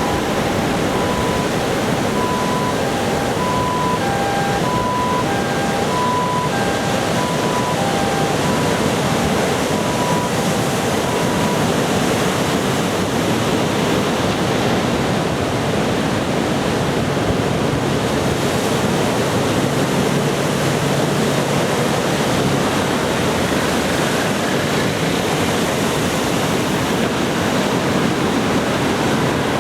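Steady rush of ocean surf breaking on the beach, possibly with some wind on the microphone. In the first twelve seconds an electronic two-tone ding alternates between two pitches, roughly one tone a second, and fades away.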